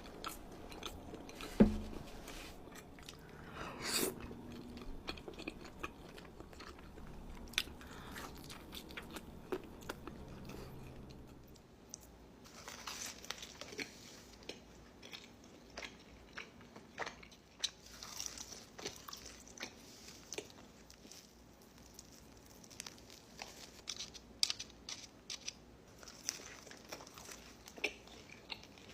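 Close-miked pizza eating: bites, crunching and wet chewing, with many small crisp clicks from mouth and crust. A single sharp knock about two seconds in is the loudest sound.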